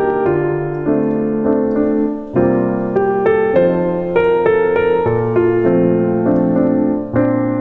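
Background music: a calm solo piano piece, notes struck one after another at an unhurried pace.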